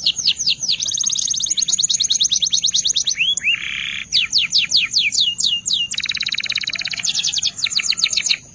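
Canário belga (domestic canary) singing a continuous song of rapid high notes that sweep downward, about eight a second, alternating with runs of fast buzzy trills and a short lower buzzy phrase about three and a half seconds in.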